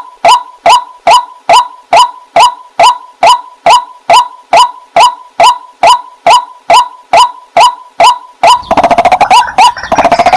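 Waterhen calling: a steady run of short, clipped notes, about two and a half a second, each dropping quickly in pitch. Near the end the calls come faster and overlap into a busy chatter.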